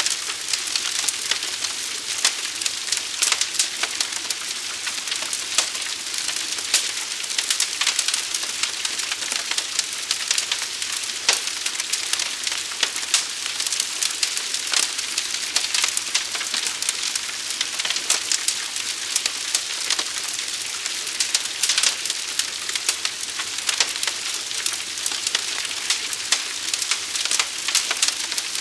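Fire burning, a steady hiss full of sharp crackles and pops from burning wood.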